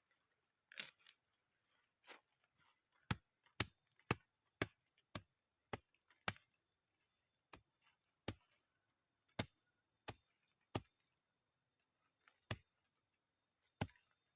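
A series of sharp, separate knocks or chops: about two a second for a few seconds, then slower and uneven.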